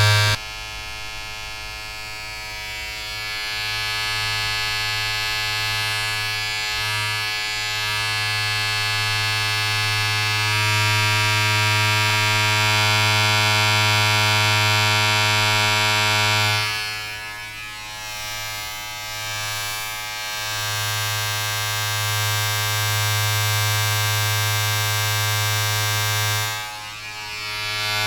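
A steady, low-pitched electric buzz with many overtones, dipping in level twice, about two-thirds of the way through and again near the end.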